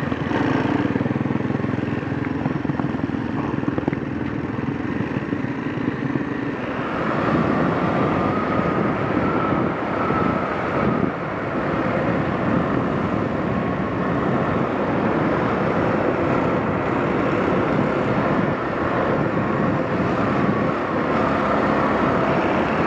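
Kawasaki KLX230 dual-sport motorcycle's single-cylinder engine running under way, with wind rush over the microphone; the engine note changes about seven seconds in.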